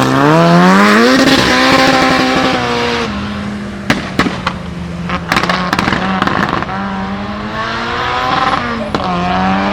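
Turbocharged Ford Sierra RS Cosworth four-cylinder engine revving up and holding high revs, then dropping off. As the revs drop, the anti-lag system fires a string of sharp bangs and pops from the exhaust. The engine then revs up again twice.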